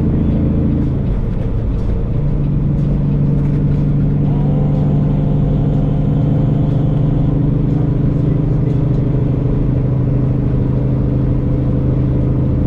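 Semi-truck diesel engine running steadily at highway speed, heard from inside the cab with road noise. The engine note changes pitch about a second or two in, then holds steady.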